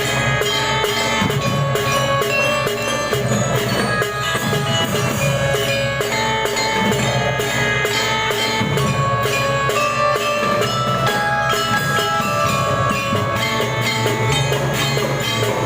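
A school marching drum band (gita suara) playing: a bell-lyra melody over steady snare and bass drum beats.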